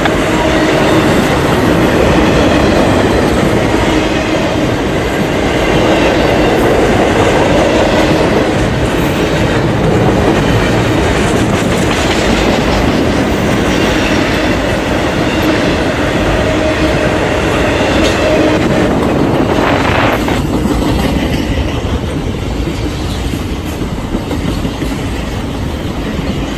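Train running along the track, a steady loud running noise that eases off a little after about twenty seconds.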